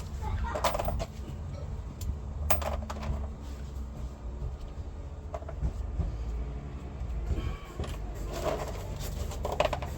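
Scattered metallic clicks and clinks of a socket wrench and extension being fitted onto engine manifold bolts, over a steady low hum.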